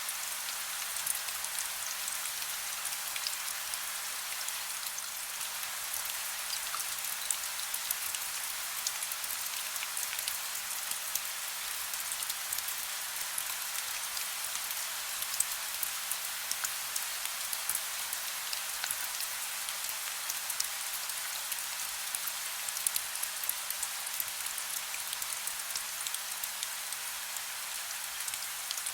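Steady soft rain: an even hiss dotted with many small, sharp drop ticks.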